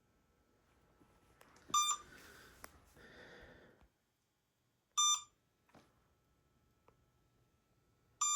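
Electronic idle-alert beeping from an RC helicopter's radio gear, which was left switched on for a while. Three short beeps come at even intervals about three seconds apart, with faint handling rustle between the first and second.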